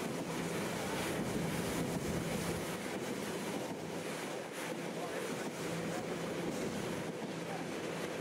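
Engineers' train of rail-carrying flat wagons rolling past on the track, a steady rumble of wheels on rail, with wind buffeting the microphone.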